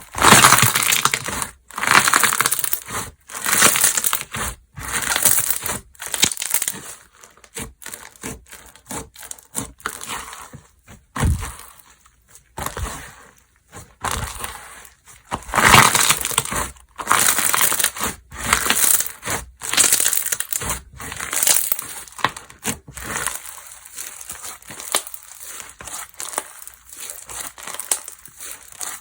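Slime being squished and pressed by hand, giving wet crackling and popping in irregular bursts, at times one to two a second, loudest at the start and again in the middle.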